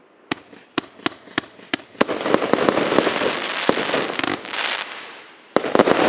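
EC535 'Wake the Neighbours' 66-shot fireworks cake firing. Six sharp separate reports come in the first two seconds, about three a second. A dense run of overlapping bursts follows for about two and a half seconds, then a quick cluster of loud reports near the end.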